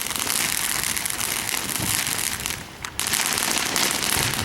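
Fireworks crackling in a dense, continuous rattle of many small pops. It drops away briefly about two and a half seconds in, then comes back.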